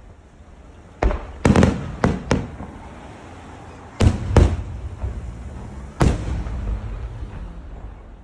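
Aerial firework shells bursting: a quick cluster of five bangs starting about a second in, two more around four seconds, and one near six seconds, each trailing off in a rumble.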